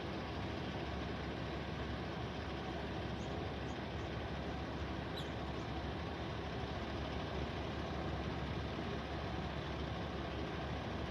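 A parked truck's engine idling, a steady, even low rumble.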